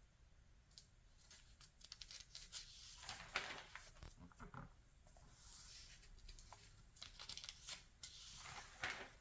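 Magazine pages being turned by hand: a few soft, crisp paper swishes and rustles, the loudest about three seconds in and again near the end.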